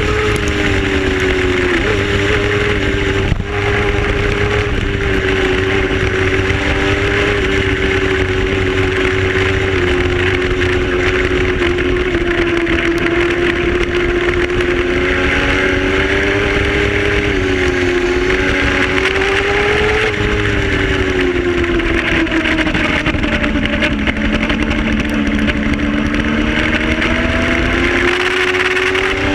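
Race motorcycle's engine running at fairly steady revs, its pitch drifting gently up and down rather than revving hard, with a single short knock about three and a half seconds in.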